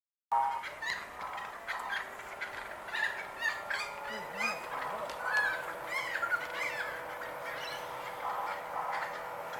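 Birds calling over and over in short, bending calls. A steady faint whine comes in about four seconds in.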